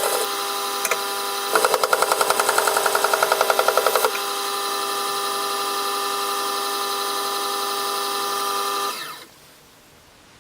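Electric motor of a Jet water sharpening machine running with a steady hum while a knife is stropped on its leather, with a fast rhythmic pulsing for a few seconds early on. About nine seconds in the machine is switched off and runs down to quiet.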